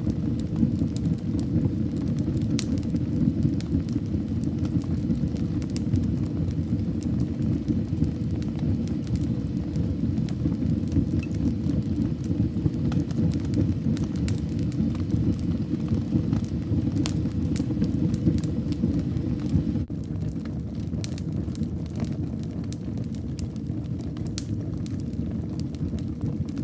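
Fire burning in a fireplace: a steady low rumble of flames with scattered sharp crackles and pops. It is slightly quieter from about twenty seconds in.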